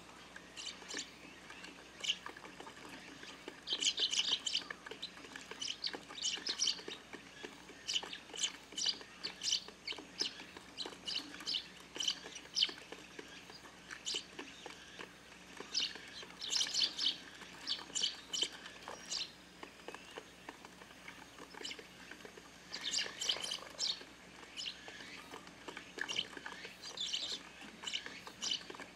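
A flock of Eurasian tree sparrows chirping at a feeder: many short, sharp chirps, bunching into busy clusters every few seconds.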